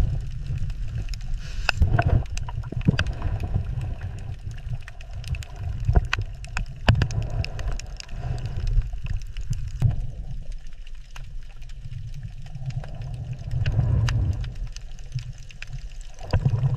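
Water gurgling, with a low rumble that swells and fades every few seconds and many scattered sharp clicks.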